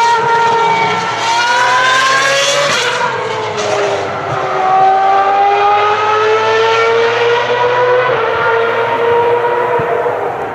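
High-revving Ferrari racing car engine at full song, its pitch climbing, dipping about three seconds in, then climbing slowly again.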